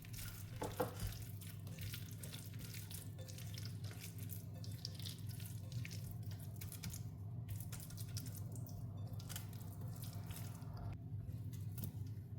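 Wet batter being worked by hand or spoon in a bowl, with irregular small clicks and squelches over a steady low hum.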